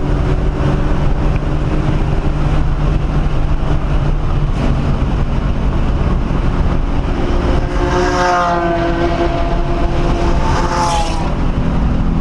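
The 1997 SVT Cobra Mustang's 4.6-litre V8 running at full throttle on a race track, heard from inside the cabin. The engine note changes partway through, and two short higher-pitched sounds rise over it near the end.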